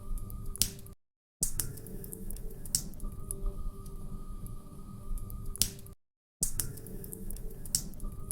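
Log fire crackling in a fireplace: scattered sharp pops and snaps over a low, steady rumble. The sound drops out to silence briefly twice, about a second in and about six seconds in.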